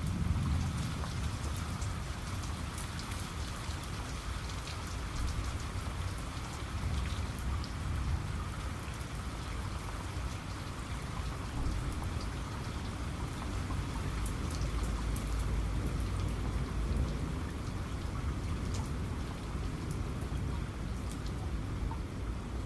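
Steady heavy rain with scattered sharp raindrop ticks. A low rumble of thunder rolls underneath and swells near the start and again a little past halfway.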